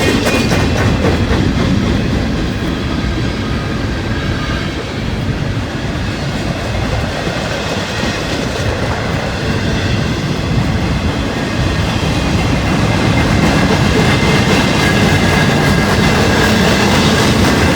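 Freight train cars rolling past close by: a steady rumble with the clickety-clack of wheels over rail joints. Toward the end there are faint traces of wheel squeal.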